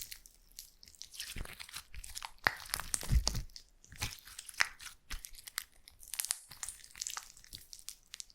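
Slime being squished and pressed by hand, giving irregular crunchy crackles and clicks with a few heavier pops.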